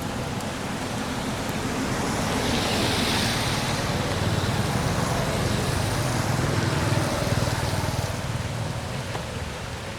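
A road vehicle passing: a steady engine and tyre rumble that builds over a few seconds and then fades away.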